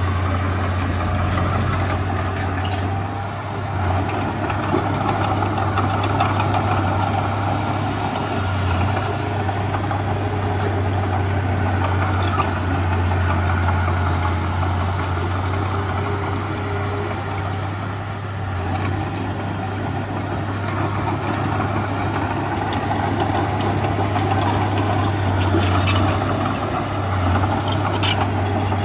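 Heavy diesel engine of earthmoving machinery running steadily with a deep hum, with a few faint clicks near the end.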